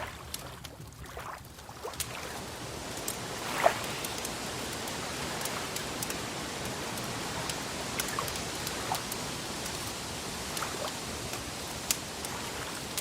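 Wood fire crackling: scattered sharp pops and snaps over a steady hiss, with one louder pop about three and a half seconds in.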